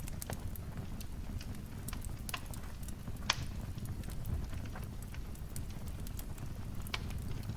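Wood fire in a fireplace crackling: a steady low rumble of burning with frequent small snaps, and one louder pop about three seconds in.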